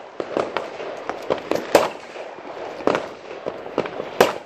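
Fireworks and firecrackers going off: an irregular string of sharp bangs and crackles, many faint pops with a few loud cracks, about two seconds in and again near the end.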